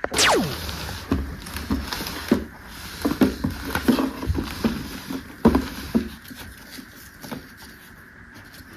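A quick falling sweep right at the start, then a run of light, irregular taps and clicks that thin out after about six seconds: plastic toy pieces and their packaging being handled.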